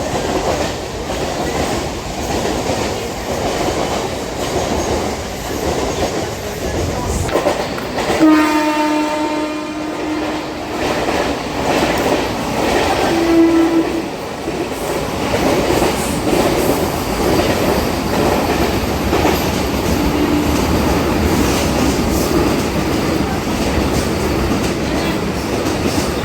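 Train running through a station at speed, wheels clattering steadily over the rail joints. About eight seconds in, the train horn sounds for a couple of seconds, and there is a second, shorter blast about five seconds later.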